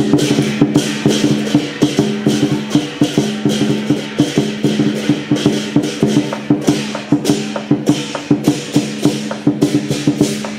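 Lion dance troupe's percussion band playing: sharp drum and cymbal strikes in a fast, steady beat, about three to four a second, over a sustained low tone.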